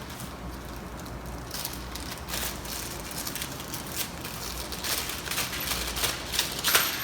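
Plastic packaging crinkling and rustling in irregular bursts as small parts are handled and unpacked, loudest near the end, over a steady low hum.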